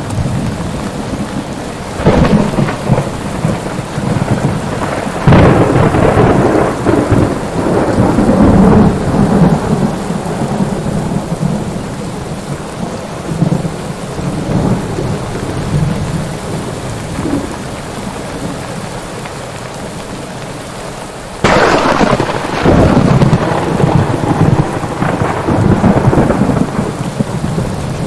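Steady rain with rolling thunder. Cracks of thunder break about 2 and 5 seconds in, and a sudden loud clap comes about 21 seconds in, each trailing off into a long low rumble.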